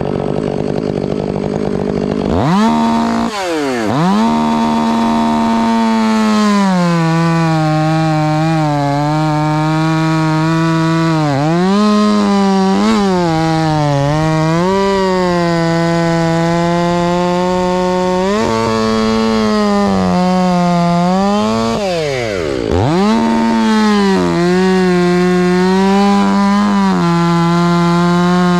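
Chainsaw running at high revs, cutting pine, its pitch sagging and recovering again and again as it loads up in the wood. Twice, about 3 seconds in and again about 22 seconds in, the revs drop right down and climb back.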